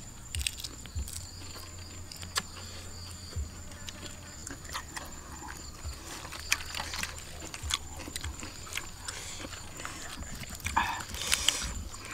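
Crispy fried garlic shrimp and lettuce being chewed and crunched, in short irregular crunches and clicks. A faint steady high-pitched tone runs underneath.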